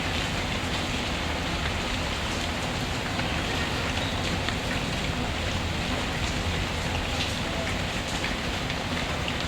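Steady rainfall with a wood fire crackling under it, in faint scattered pops.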